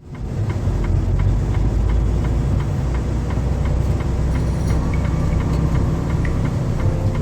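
Truck engine and road noise: a steady low rumble.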